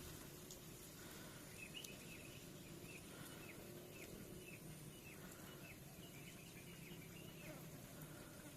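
Faint bird chirping: a run of short, high calls repeated several times a second over low, steady background noise, starting about two seconds in and stopping near the end.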